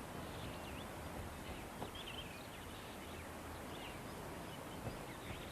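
Outdoor savanna ambience: a steady background hiss with faint, scattered chirps of small birds.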